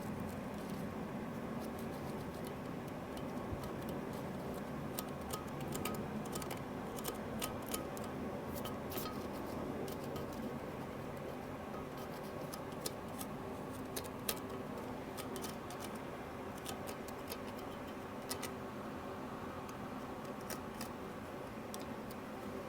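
Scattered light clicks and taps of hand tools and metal engine parts being handled during a teardown, over a steady background hum.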